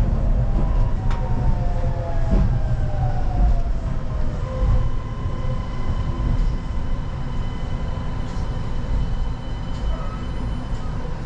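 Kanazawa Seaside Line rubber-tyred automated guideway train running, with the deep rumble of the tyres on the guideway under a motor whine that falls in pitch over the first few seconds as the train slows. After that a steady high whine holds.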